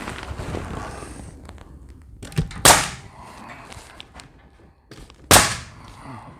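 Two loud, sharp bangs about two and a half seconds apart: nails being driven into cedar tongue-and-groove ceiling boards. A rough scraping, handling noise comes at the start.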